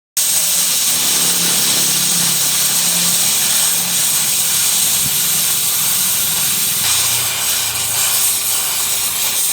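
A power tool running steadily with a loud hissing noise and a low wavering hum underneath, cut off abruptly at the end.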